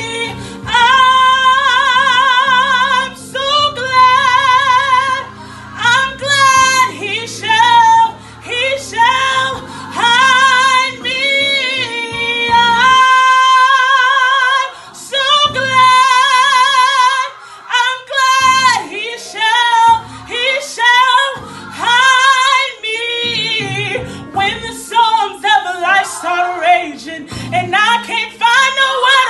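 A woman singing a gospel song with wide vibrato and long melismatic runs, held notes sliding up and down. Sustained low instrumental chords accompany her and drop away about 13 seconds in, leaving the voice nearly alone.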